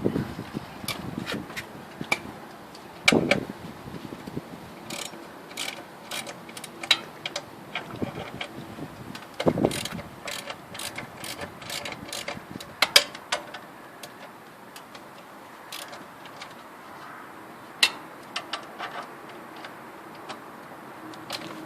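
Hand tools clicking and knocking on metal in irregular, scattered strikes, with ratchet-like clicking: spanner and ratchet work unbolting the stock exhaust on a Moto Guzzi Bellagio.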